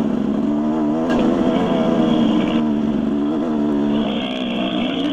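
Dirt bike engine running under steady throttle while riding a trail, its pitch wavering slightly as the throttle shifts, with rushing noise over it.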